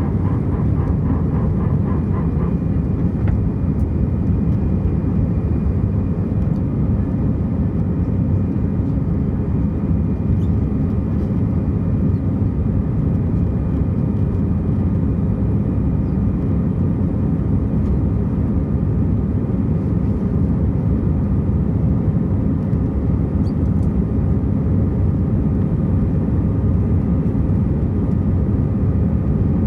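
Steady jet engine and airflow noise inside an Airbus A320's passenger cabin, a constant low rumble with a faint steady whine on top.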